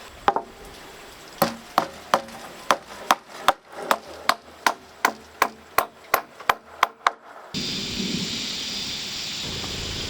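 A hammer striking wood in a steady run of about seventeen blows, roughly three a second, building a wooden frame. About three-quarters of the way through it cuts off sharply to a steady rushing of wind.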